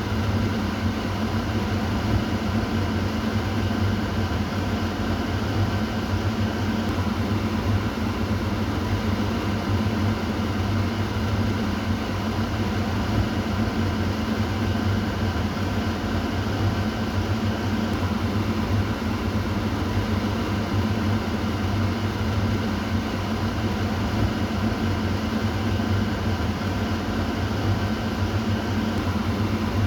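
Kitchen exhaust fan running steadily: an even whoosh of moving air over a low motor hum, with no change in speed.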